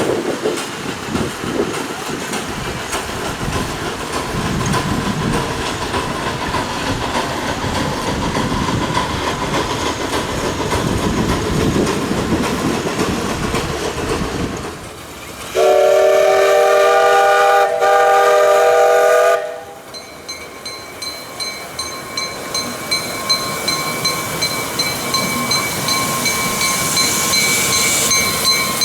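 Live steam miniature locomotive running on its track with steady running noise and rail clatter. About halfway through its steam whistle is blown in one loud blast of several notes for about four seconds, briefly broken near its end. After that comes a steady high whine with a regular pulse as the train keeps moving.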